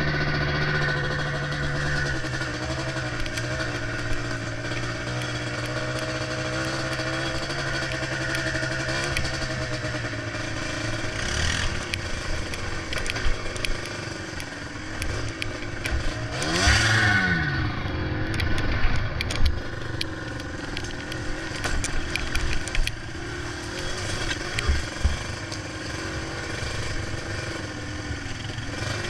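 Yamaha Blaster ATV's two-stroke single-cylinder engine running as it is ridden over trails. The engine note drops in the first second or two, then revs up and back down briefly about two-thirds of the way through, with knocks and rattles throughout.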